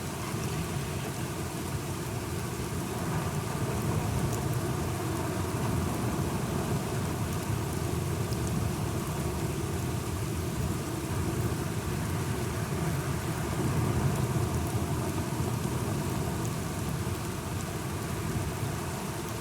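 Steady rainfall with a low rumble of thunder underneath, swelling a little twice.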